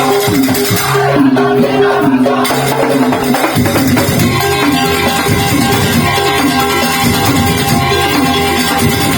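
Madurese daul (tong-tong) percussion ensemble playing, a short melodic figure repeating over dense drumming and rattling percussion. The low drums come in heavier about three and a half seconds in.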